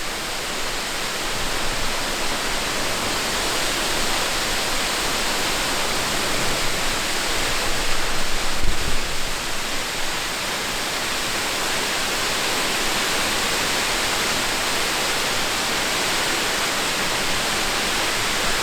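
Waterfall in a desert canyon: a steady, even rush of falling water, with a brief low thump about halfway through.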